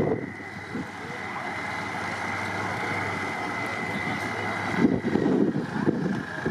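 Trial truck's engine running under load on the course, growing louder and rougher about five seconds in.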